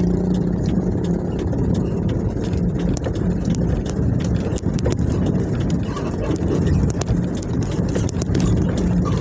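Truck engine running steadily with a low hum, overlaid by frequent sharp rattles and clicks.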